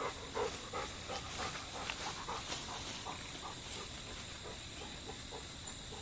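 Golden Retriever panting in quick rhythmic breaths, loudest at first and fading. A steady high-pitched insect drone runs underneath.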